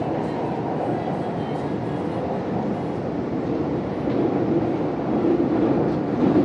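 CRRC Puzhen B-type metro train running, a steady rumble that grows a little louder about four seconds in.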